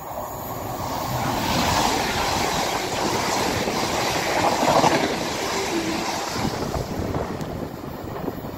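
TransPennine Express Class 185 diesel multiple unit passing through at speed, a rush of wheel and engine noise that builds about a second in, peaks around the middle and eases off. Wind buffets the microphone.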